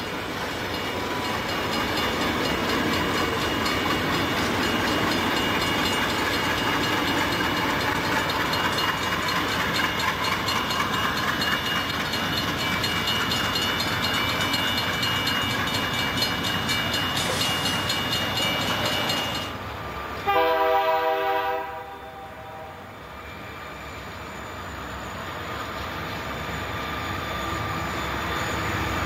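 Diesel-hauled freight train rumbling steadily past a grade crossing, then, after a cut, one loud chord blast of a diesel locomotive's air horn lasting about a second and a half, followed by the rumble of a CN-powered train approaching and growing louder.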